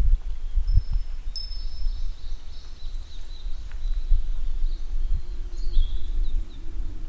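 Uneven low rumble and buffeting of wind on the microphone, with birds chirping and whistling high above it.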